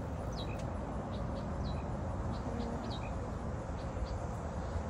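Small birds chirping: short, high chirps and little falling notes, a few each second, over a steady low rumble.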